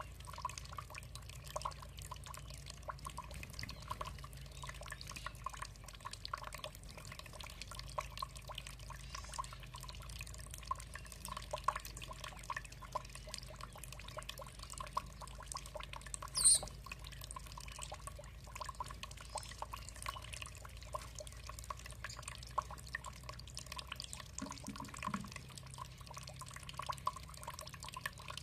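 Water trickling in a steady patter of small drips and splashes. About halfway through a bird gives a single short, high call, the loudest sound in the stretch.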